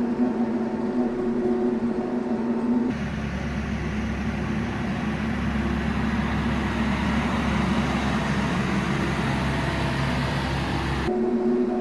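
Diesel engine of a TYM T574 compact tractor running steadily, first as a droning hum. About three seconds in it changes abruptly to a broad, hissy rush with a deep rumble, and it switches back to the hum near the end.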